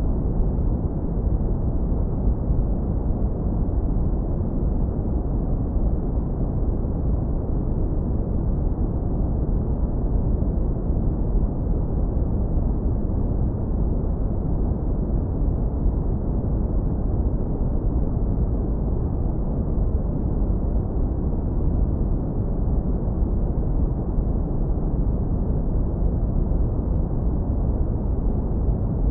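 Synthetic brown noise, heavily low-pass filtered: a continuous, steady deep rumble-like hiss with nothing above the low end.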